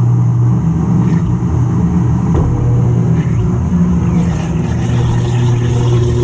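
GE top-loading washing machine running, heard from inside the drum by a camera fixed to the agitator: a loud, steady mechanical hum with a low drone that wavers slightly.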